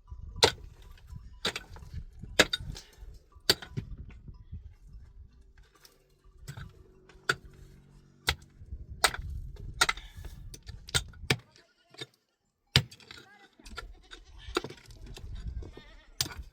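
Repeated sharp knocks, about one a second at first and then irregular, with livestock bleating faintly in the middle.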